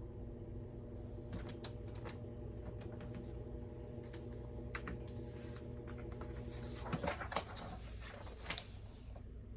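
Washing machine motor humming steadily, cutting out about seven seconds in, with scattered keyboard keystrokes and a short burst of clattering near the end.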